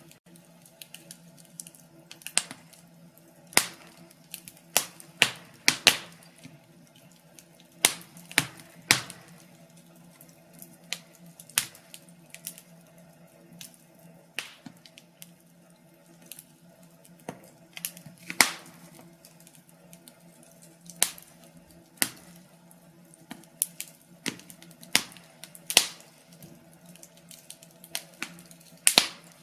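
Wood fire crackling in a fireplace: irregular sharp pops and snaps, about one or two a second, some in quick pairs, over a faint steady hum.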